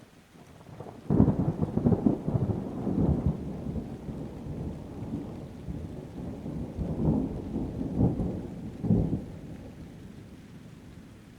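Thunder during a rainstorm: a sudden loud crack about a second in, then rolling rumbles with several more peaks that fade away near the end, over a faint hiss of rain.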